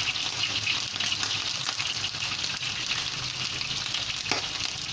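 Prawns frying in hot oil in a wok: a steady sizzle with small crackling pops as the oil spits.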